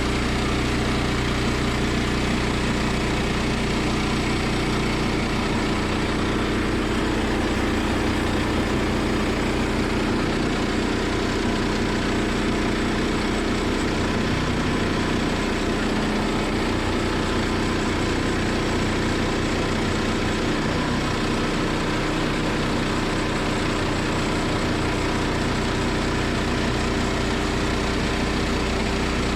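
Engine of a Woodland Mills portable bandsaw sawmill running steadily.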